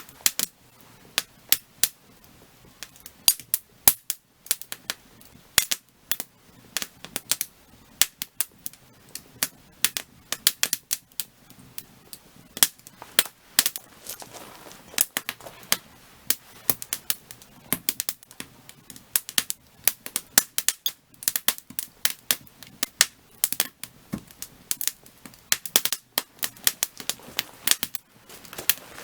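Burning firewood crackling and popping: irregular sharp snaps, several a second, some much louder than others, over a faint steady hiss of the flames.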